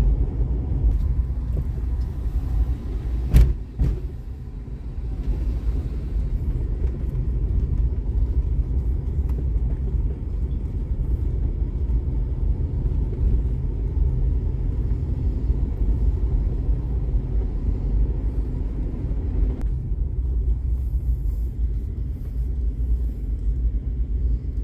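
Car driving along: a steady low rumble of engine and tyres, with one sharp knock about three seconds in.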